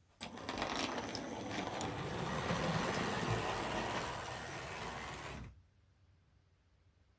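O gauge model London tram running on its track: the small electric motor and wheels whirr steadily, with clicks over the rails, starting just after the opening and stopping abruptly about five and a half seconds in.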